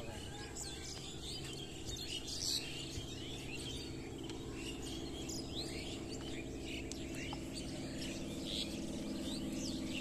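Small birds chirping, with many short calls scattered throughout, over a steady low hum.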